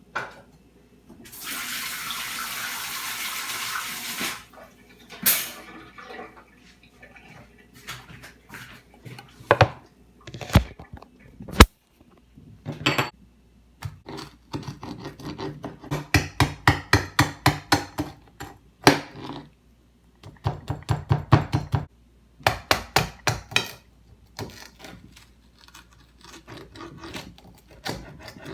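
Kitchen sounds: a tap runs for about three seconds, then assorted knocks and clatter with bursts of quick, rhythmic scraping.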